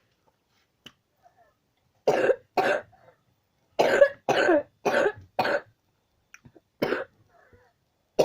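A person coughing in bouts: two coughs about two seconds in, then a run of four quick coughs, and a single cough near the end.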